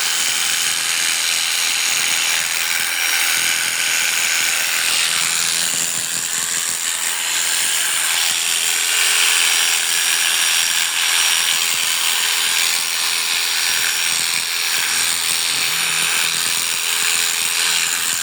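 Electric sheep-shearing clippers running steadily as they cut through wool.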